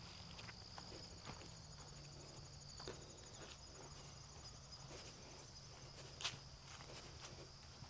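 Insects trilling steadily in a high, continuous buzz, faint, with irregular soft footsteps of someone walking on a trail and one louder click a little past six seconds in.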